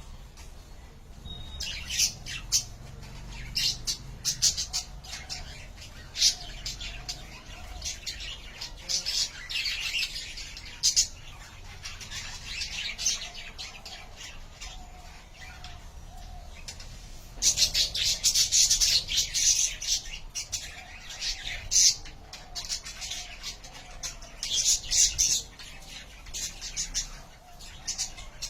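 Budgerigars chirping and chattering in short, sharp high-pitched bursts, with a dense flurry of calls about two-thirds of the way through.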